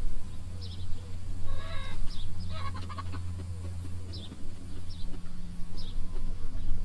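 Backyard chickens clucking, with one loud squawk early on and short, high falling chirps about once a second, over a steady low hum.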